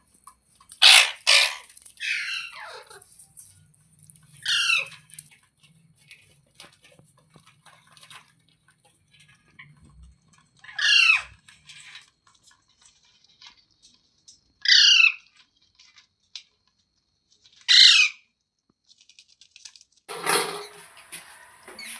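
Pet parrot squawking in loud, harsh single calls that each sweep down in pitch: a quick double shriek about a second in, then calls spaced several seconds apart. Near the end a broader rustling noise and a steady hiss come in.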